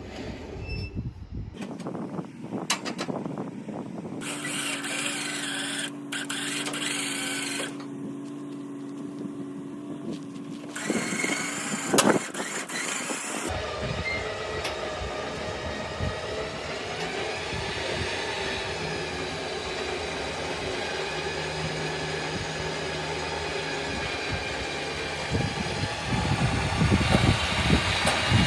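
Winch running as it pulls a truck onto a trailer, a steady mechanical hum heard in several short cut-together clips, with a sharp clank about twelve seconds in.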